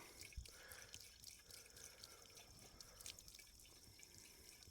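Faint water dripping and trickling while the water pump is being primed by pouring water into its casing, with some spilling over. There is a soft thump about half a second in.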